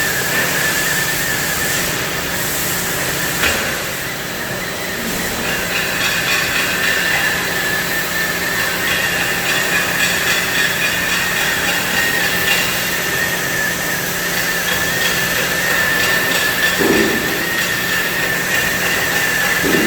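CNC cutting torch working on steel plate: a loud, steady hiss with a high whine held on one pitch and a low hum underneath.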